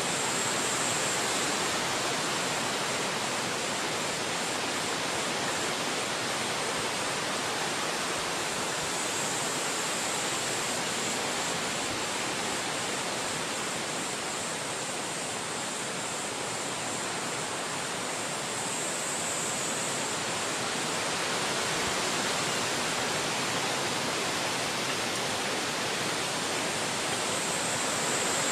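Wind blowing steadily through forest trees, a continuous rushing that eases slightly in the middle, with a thin high hiss that swells and fades a few times.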